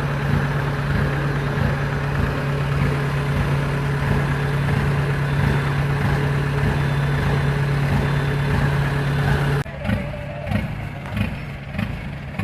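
Rice combine harvester's diesel engine running steadily with a strong low hum. About ten seconds in the loud drone cuts off abruptly, leaving a quieter, uneven engine rumble.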